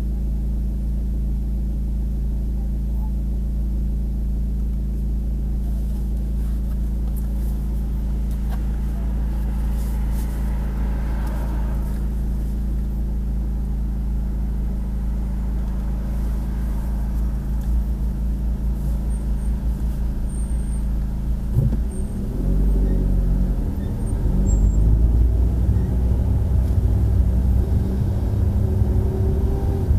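Car engine idling steadily while stopped in traffic, heard from inside the cabin. About two-thirds of the way through, the engine note rises and wavers as the car pulls away and accelerates.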